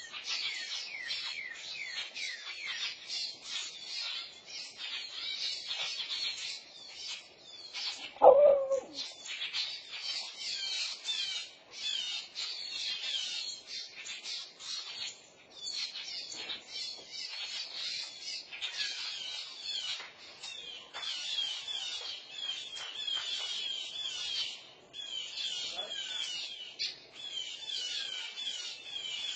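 Songbirds calling rapidly and without pause in dense runs of short chirps, the agitated calling of birds around a fledgling on the ground. About eight seconds in comes one louder, lower cry that falls in pitch.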